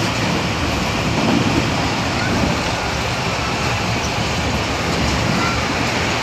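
Steady running noise of a moving passenger train heard from inside the carriage.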